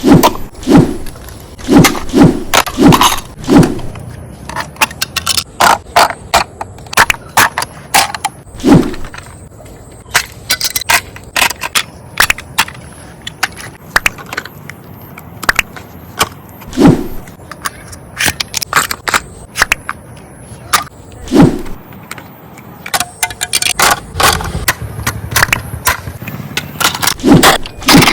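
A busy run of clicks, knocks, rattles and scrapes from plastic RC toy cars and their packaging being handled, with a few heavier thumps.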